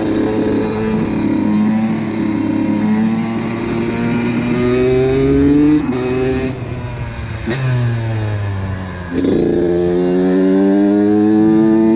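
Honda CR125's two-stroke single-cylinder engine accelerating hard, its pitch climbing steadily and dropping sharply at gear changes about six and nine seconds in. Between the shifts it briefly eases off, the pitch sinking, before pulling hard again.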